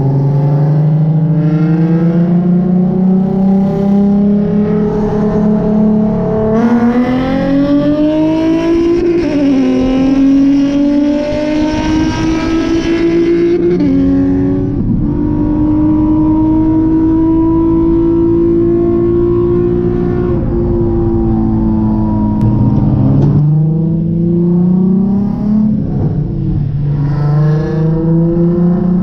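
Nissan 350Z's V6 engine pulling hard through the gears: the pitch climbs, drops at a shift about nine seconds in and climbs again, holds nearly steady for several seconds, then falls and climbs once more near the end.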